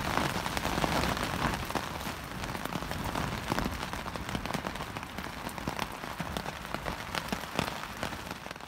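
Rain beating on a tent's fabric, heard from inside the tent: a dense steady hiss dotted with many sharp ticks of drops striking the fabric.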